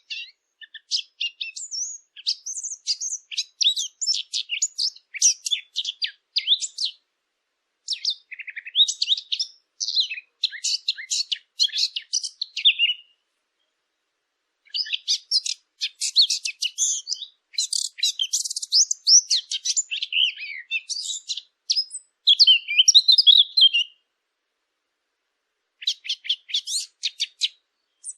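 Small songbirds chirping and twittering in rapid runs of high, quick notes. The song twice breaks off for a second or two, about halfway and again near the end.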